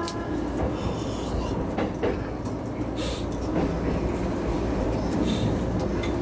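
Electric commuter train running along the line, heard from inside at the front: a steady rumble of wheels on rail with a faint motor hum that comes in about halfway through, and a couple of brief clicks and hisses.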